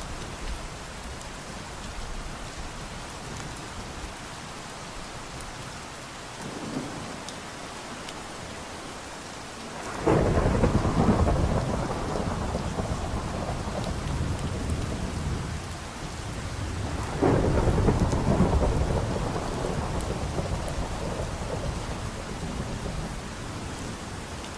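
Steady rainfall with thunder: a faint rumble about six seconds in, then two loud rolls of thunder about ten and seventeen seconds in, each starting sharply and dying away slowly under the rain.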